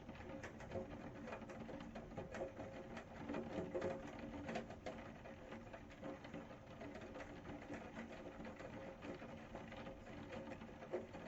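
Rain falling steadily, a dense patter of countless small drop ticks.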